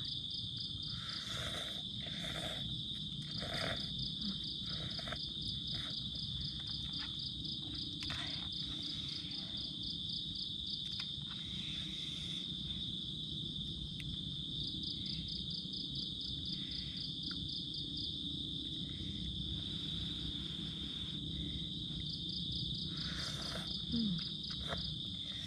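Night-time insect chorus: a continuous high-pitched trill with a fast pulsing chirr above it. Scattered soft clicks and knocks come now and then.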